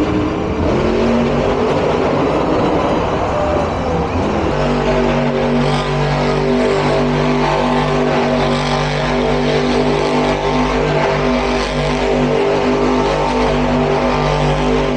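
Monster truck engines revving, pitch rising and falling; about four and a half seconds in, a loud steady engine drone sets in and holds one pitch.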